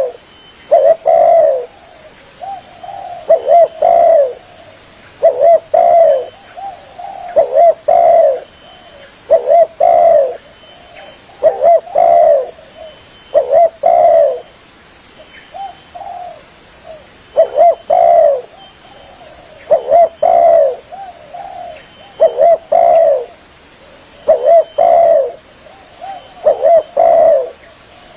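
Spotted dove (tekukur) cooing: loud phrases of a few short coo notes, repeated about every two seconds, as used for a bird-trapping lure call.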